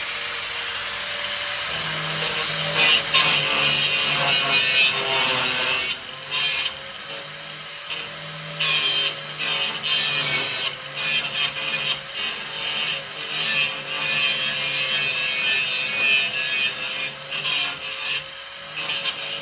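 Grinder motor running steadily while grinding steel in repeated passes. A loud grinding hiss starts about three seconds in and breaks off briefly many times as the disc is lifted and set back on the metal.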